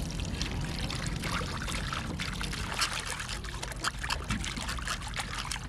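Water pouring and trickling in a steady, uneven stream.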